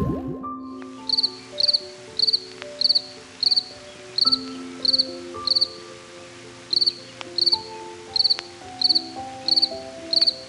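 Cricket chirping in short, regular pulsed chirps, about two a second, starting about a second in with a brief pause midway, over a soft music melody.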